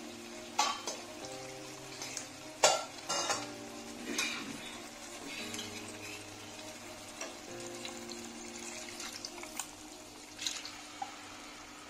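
Spinach, pea and onion-tomato masala sizzling in a kadai while a steel spatula stirs and scrapes it, with several sharp knocks of metal on the pan in the first few seconds. Near the end, green liquid from a steel bowl is poured into the hot pan.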